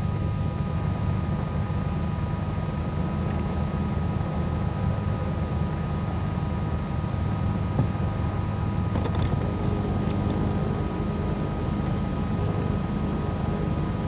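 Twin piston engines of a 1974 Cessna 310Q running at low power after landing, heard from inside the cabin as a steady low drone with a faint, constant high whine on top.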